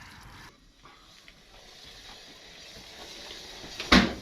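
Faint hiss of water running from a garden hose during a cooling-system flush, dying away about half a second in, then light handling noises and a sharp clack near the end.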